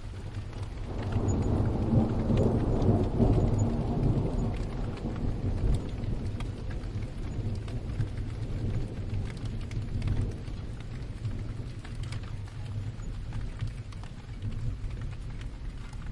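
Rolling thunder rumbling over steady rain: the rumble builds about a second in, is loudest a few seconds later, then fades away slowly while the rain hiss and patter go on.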